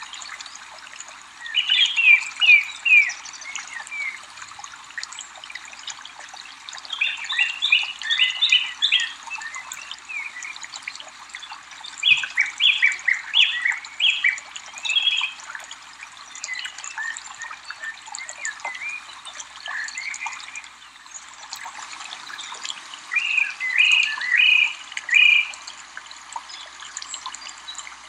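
A small bird chirping in quick runs of five or six sharp notes, four bursts spaced several seconds apart, over a steady hiss of running water.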